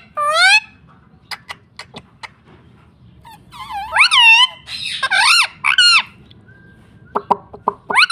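Pet Indian ringneck parrot giving several short, high calls whose pitch bends up and down, with a run of sharp clicks between them.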